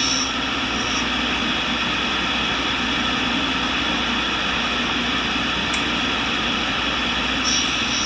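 Tool and cutter grinder's wheel running steadily with a continuous hiss, as the high-speed steel end mill is ground flute by flute. Brief shriller spells come about a second in and again near the end.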